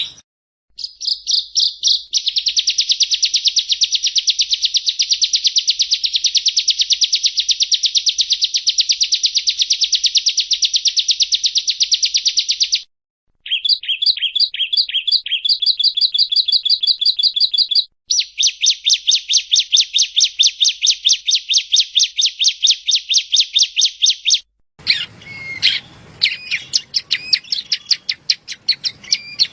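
Prenjak rowo (yellow-bellied prinia) singing: long, rapid, high trills separated by short pauses, one starting as a stuttering series of notes. About 25 seconds in it gives way to varied, irregular chirps over a hissier background.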